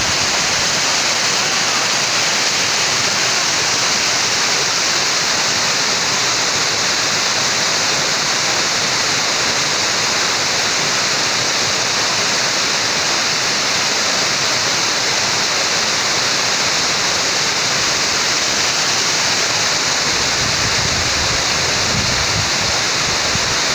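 Waterfall on a stream: a steady, loud rush of falling water.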